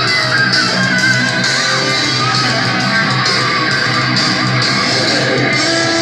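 Guitar-led rock music played back through home stereo speakers fed via a car-audio crossover, as a sound test; steady and loud, with little deep bass.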